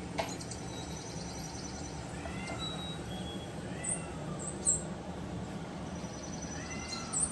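Young Persian kittens giving a few faint, short, high mews, each rising and falling in pitch, over a steady low hum.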